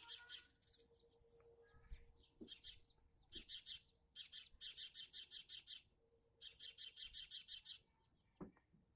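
Faint bird chirping in several quick runs of rapid high notes, about eight to ten a second. A short soft knock comes near the end.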